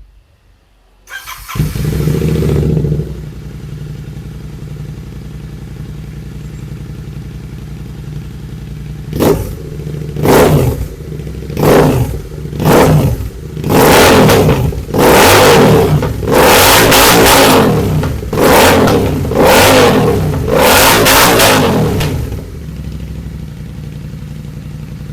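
Royal Enfield Interceptor 650's 648 cc parallel-twin running through a Barrel BE-10 Bass Master slip-on exhaust with its baffles removed. It starts about a second in, idles, then is revved in about ten throttle blips that get longer and longer, and drops back to idle near the end. Extremely loud.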